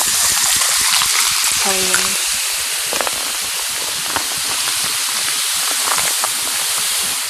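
Pepsi being poured into a cup, fizzing with a loud, steady hiss that fades out just after the pour stops.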